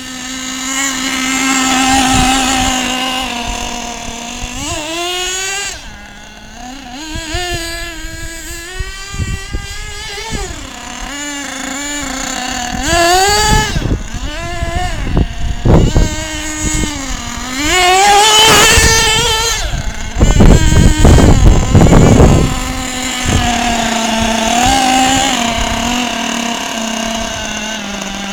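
Small glow-fuel (nitro) engine of an HPI Lightning Stadium Pro RC truck running: it idles steadily, then revs up and down repeatedly as the truck is driven, and settles back to idle near the end. About two-thirds of the way through there is a loud, rough stretch with knocks and rattles.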